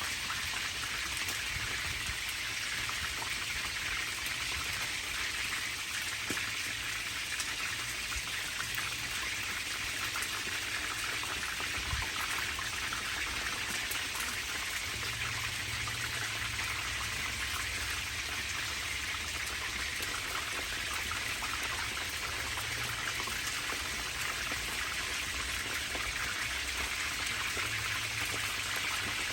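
Rain falling steadily, a dense, even hiss made up of many tiny drop ticks.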